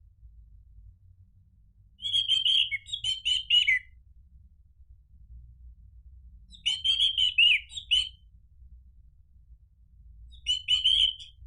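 Orange-headed thrush singing in three short phrases of rapid, chattering notes, each one to two seconds long, with pauses of a few seconds between them.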